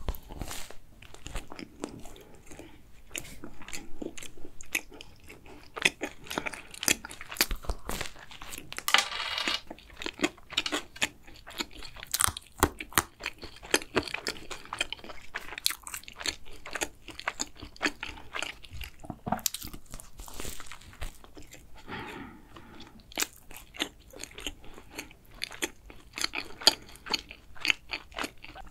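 Close-miked biting and chewing of a chocolate-coated croissant: a loud bite at the start, then a long run of crunchy chewing, with many crisp crackles as the chocolate coating and pastry break.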